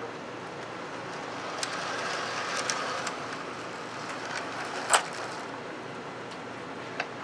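Lionel O gauge toy train with a small 0-8-0 switcher locomotive running on three-rail track: a steady rumble of motor and wheels with scattered sharp clicks, the loudest about five seconds in.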